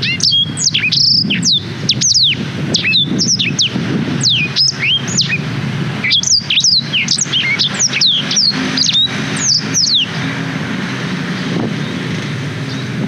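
Blackthroat (black-throated canary) singing a fast run of sharp, mostly falling chirps and trills, which stops about ten seconds in. A low, steady background rumble runs underneath and is left on its own at the end.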